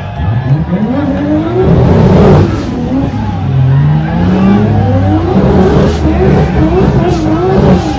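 A car engine revving and accelerating hard. The revs climb steeply in the first two seconds, drop, climb again, and then rise and fall several times in quick succession near the end.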